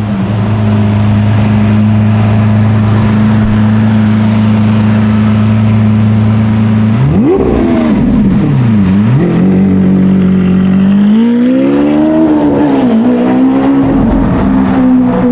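A sports car's engine held at a steady note, then revved sharply about halfway through, the pitch jumping up and falling back. After a short steady spell it revs again, rising and wavering before settling.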